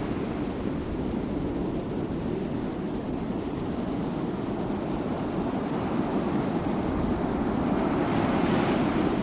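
Sea waves washing ashore in a steady rush, one wave receding after the start and the next building up towards the end.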